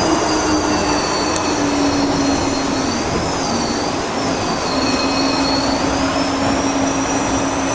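An airliner's jet engines heard from inside the cabin: a steady roar with a low hum that sinks slightly early on and then holds, over a high whine.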